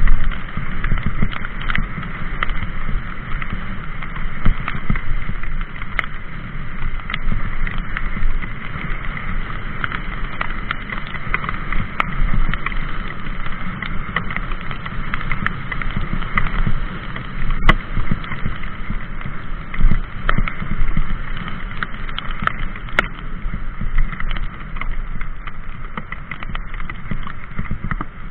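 Mountain bike in motion on a wet trail: continuous rumbling noise from the tyres and wind on the microphone, with frequent small clicks and rattles from the bike.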